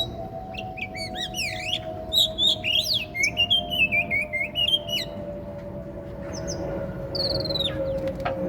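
Oriental magpie-robin (kacer) singing: a fast run of varied whistles and chirps in the first half, then a few falling whistle notes near the end. A steady low hum runs underneath and slowly drops in pitch.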